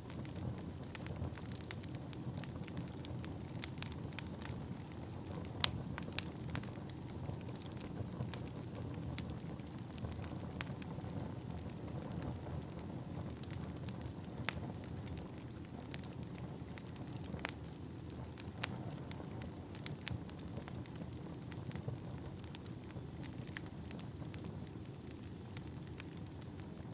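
Wood fire burning in a fireplace: a steady low rush of flames with irregular sharp crackles and pops from the logs, one loud pop about six seconds in. A faint high whistle slides down and holds near the end.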